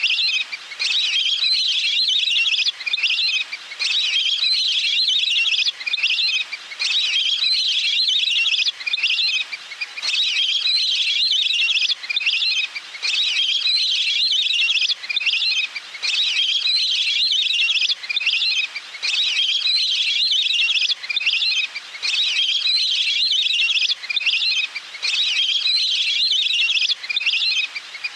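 Recorded calls of a water bird played as a lure: rapid, high, chattering calls in phrases of a couple of seconds, repeating with short gaps between them.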